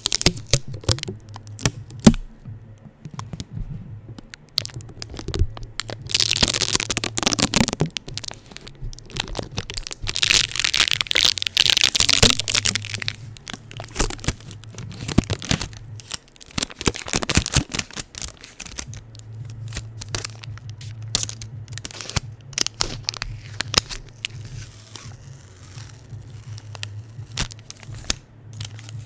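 Adhesive tape being stuck to a microphone and peeled and ripped off it fast, close up: a run of crackles and sticky clicks with longer tearing rasps now and then. A low hum runs underneath.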